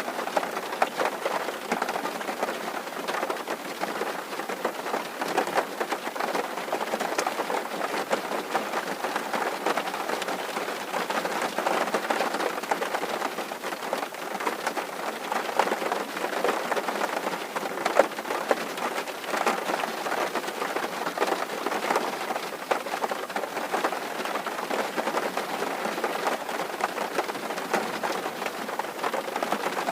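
Rain drumming on a tin roof: a dense, steady patter of many small drop impacts on the metal sheeting.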